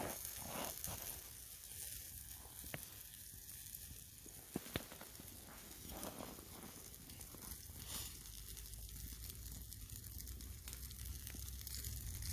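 Pork chops sizzling on a grill over campfire coals, the fat spitting, with a few sharp pops from the fire around the middle.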